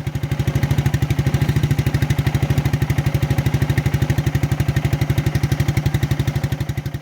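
1992 Suzuki QuadRunner 300's single-cylinder four-stroke engine idling steadily on full choke while still cold. It is running rich, over-fuelling and smoking from the exhaust.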